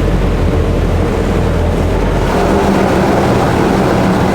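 High-pressure water jets of a touchless automatic car wash blasting snow off a pickup, heard from inside the cab as a loud steady rushing over a deep rumble. A little over two seconds in, a steady machine hum comes in on top.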